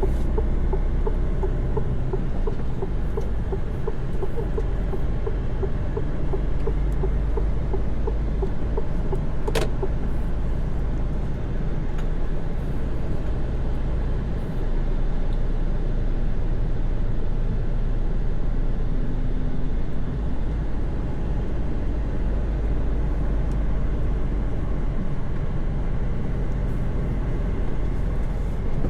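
Mercedes-Benz Actros truck cruising on the motorway, heard inside the cab: a steady low engine drone and road rumble. There is a single sharp click about ten seconds in.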